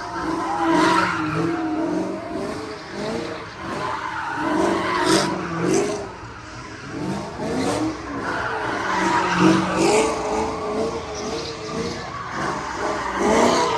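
Car tyres squealing in wavering, rising and falling howls over a running, revving car engine, as a car slides and drifts.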